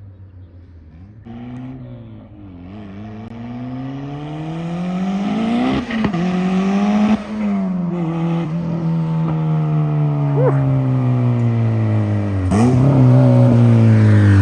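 Turbocharged Honda B16 four-cylinder in an EG Civic hatch pulling hard through its new exhaust. The engine note climbs, breaks twice around six and seven seconds in as it shifts, then falls slowly as the car eases off, with a quick dip and rise near the end.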